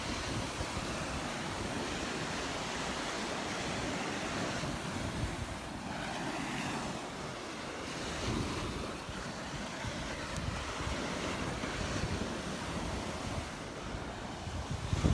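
Surf washing onto a sandy beach, a steady wash of noise, with wind gusting across the microphone in low rumbles.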